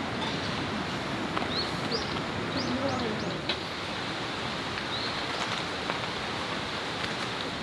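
A bird giving about six short rising chirps over the first five seconds, over a steady outdoor hiss.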